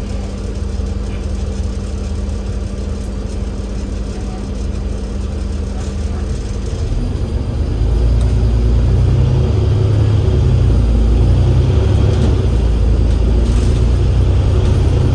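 Cummins L9E diesel engine of an Enviro500 MMC double-decker bus with a ZF Ecolife automatic gearbox, heard on board: a steady low running sound with a hum for the first several seconds, then the engine rumble builds and grows louder about halfway through as the bus pulls away and accelerates.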